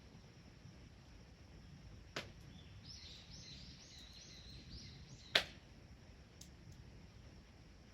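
Two sharp pops from a wood bonfire, the second much louder, over a faint outdoor background. Between the pops a bird gives a quick run of short high notes.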